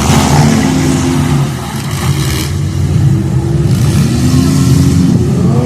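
Several compact derby cars' engines revving, their pitch rising and falling as they accelerate around the arena at the start of a demolition derby heat, with two short rushes of noise about two and about three and a half seconds in.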